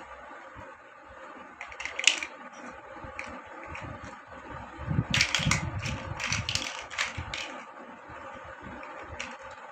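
Plastic building bricks clicking and rattling as pieces are handled and pressed together. There are a few clicks about two seconds in and a busy run of clicks and knocks from about five to seven and a half seconds.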